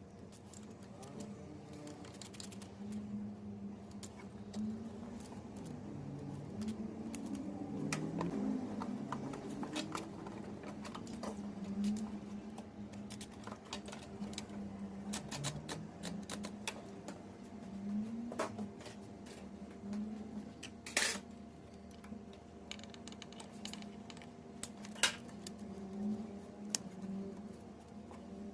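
Scattered light metallic clicks and clinks of hand tools and small parts being handled during scooter repair work, with a couple of louder clicks near the end, over a faint low hum.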